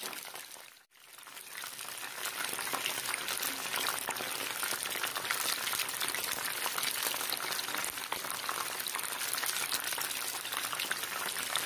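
Chicken pieces frying in hot oil in a pan, a steady sizzle full of small crackling pops. The sound drops out briefly about a second in, then comes straight back.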